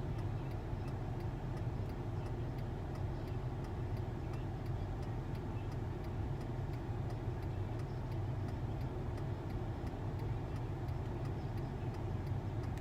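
Steady low rumble of a car heard from inside the cabin, with faint, evenly spaced ticking running through it.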